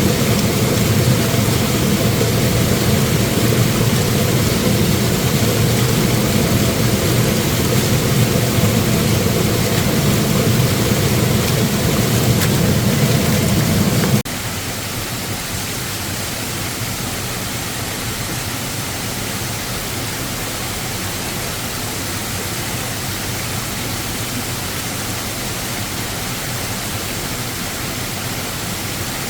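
Waterfall rushing steadily, with a deep rumble. About halfway through, the sound drops abruptly to a quieter, even hiss of falling water.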